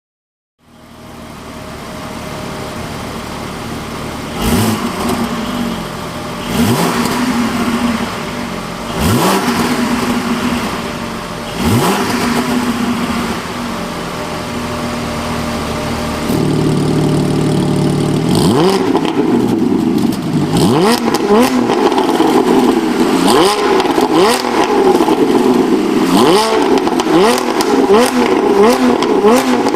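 Porsche 718 Spyder's naturally aspirated 4.0-litre flat-six revved through a PowerCraft variable-valve exhaust: idling, then four spaced throttle blips with crackles and pops on the overrun. About halfway through it gets louder and is revved repeatedly, roughly once a second, each rev rising sharply in pitch and followed by crackles.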